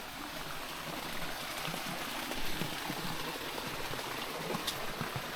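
Steady hiss of running spring water flowing into the ponds.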